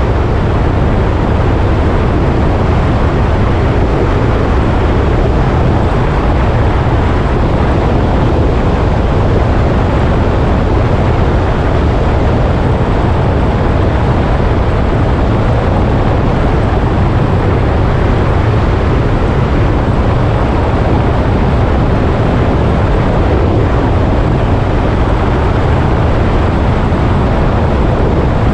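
A motorcycle under way, its engine and the rush of the ride making a loud, steady noise with no change in pace.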